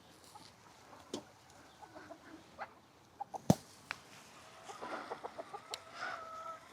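Chickens clucking and calling, with a held call near the end. A few sharp knocks come earlier, the loudest about halfway through.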